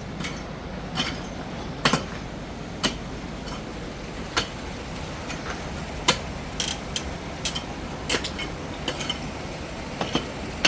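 Irregular sharp clicks and knocks, about one or two a second, over a steady low hum.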